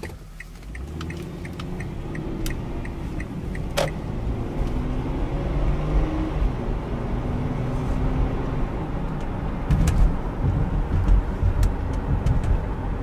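Inside the cabin of a 2012 Kia Sorento SX: a light steady ticking for the first few seconds, then the engine and road noise build as the SUV pulls away, the engine note rising as it accelerates.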